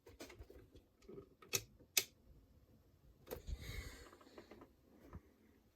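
A few sharp clicks and light knocks, one near the start, two close together about two seconds in and another past three seconds, then a short rustle or scrape: small objects being handled.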